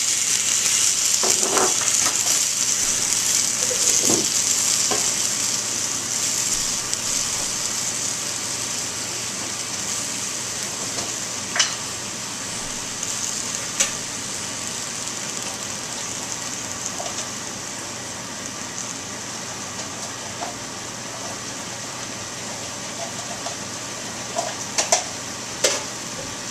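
Stir-fried vegetables and thinned sauce sizzling in a hot wok, the sizzle slowly dying down. A few sharp clicks, about four in all, spread through the second half.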